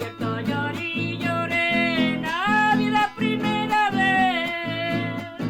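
Acoustic guitar strummed in a steady rhythm under a sung melody that glides up and down.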